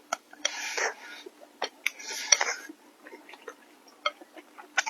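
Close-miked eating of glass noodles: two noisy slurps, about half a second and two seconds in, among light clicks of utensils against a bowl and wet mouth sounds.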